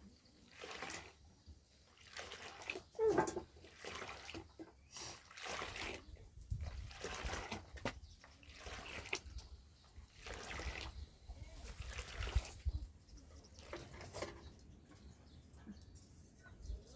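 Water splashing in a series of short bursts, roughly one a second, with a low rumble underneath from about halfway through.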